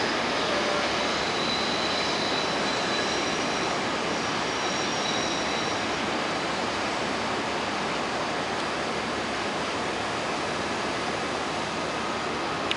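A CTA 'L' train of Budd 2200/2600-series cars pulling out and receding: a steady rushing rumble that slowly fades, with faint high-pitched wheel squeal in the first half.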